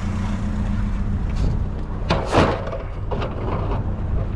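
Small pickup truck's engine idling steadily. About two seconds in there is a loud bang, followed by several lighter knocks.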